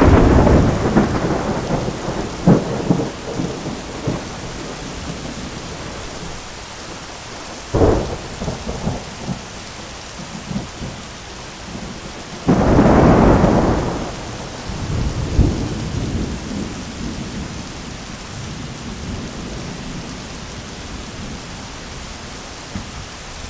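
Thunderstorm: steady rain hiss with thunder rolling off from a loud clap at the start. A sharp crack comes about a third of the way in, and a second loud peal just past the middle rumbles on for a few seconds before the rain is left alone.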